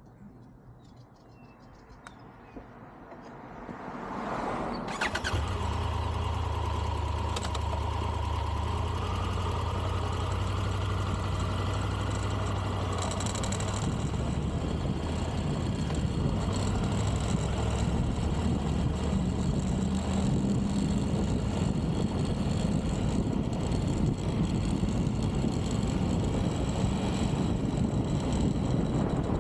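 Triumph Tiger 1200 GT Pro's three-cylinder engine starting about five seconds in, then idling steadily. Later it runs on as the motorcycle moves off, with rushing noise added to the engine sound.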